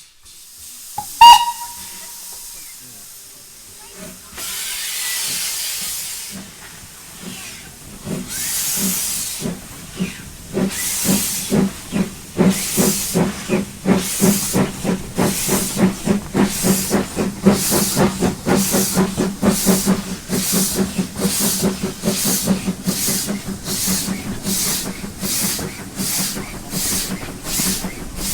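Terrier 0-6-0 tank steam locomotive giving a short whistle about a second in, then letting off hissing steam and starting away with its train, its exhaust chuffs quickening steadily as it picks up speed.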